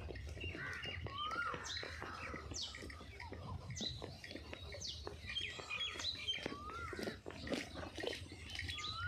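Several birds calling: short chirps and quick falling whistles throughout, with a rising-then-falling note heard a few times, over a low rumble.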